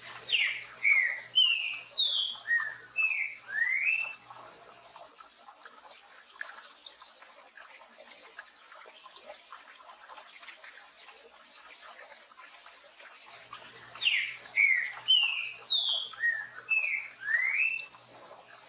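Green-winged saltator (trinca-ferro) singing its 'tio joão pedro boi' song: two phrases of about seven clear, sliding whistled notes, one at the start and one about fourteen seconds in. A steady hiss of rain runs underneath.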